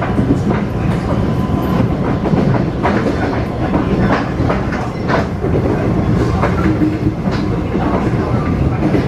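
Cabin noise inside a Taiwan Railway EMU500 electric multiple unit running along the line: a steady rumble of wheels on rail with irregularly spaced clicks from the track.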